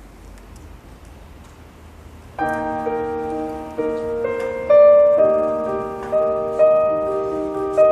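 Slow, sustained piano chords that begin suddenly about two and a half seconds in after a quiet stretch, with new notes struck every half second or so.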